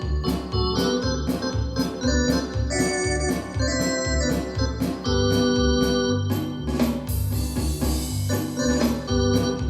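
Yamaha DX7 FM synthesizer playing held chords that change every second or so, over a steady percussive beat.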